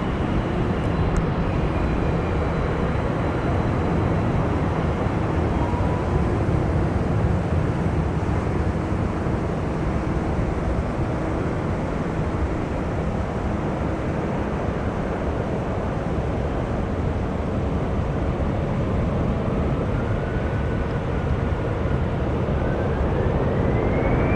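Jet airliner engine noise: a steady rush with a faint whine that rises in pitch near the end.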